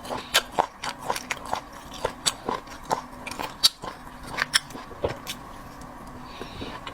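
Close-miked eating of cat's eye snails: irregular sharp clicks, smacks and crunches of biting and chewing, a few each second.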